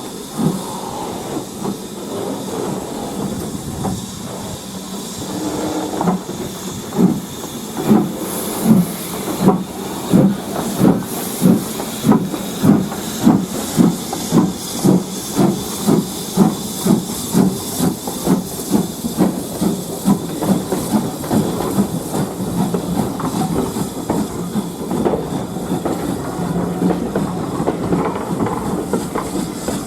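Steam locomotive blowing off steam with a steady hiss, then pulling away with its exhaust beats at about two a second, quickening slightly before merging into a steadier running sound.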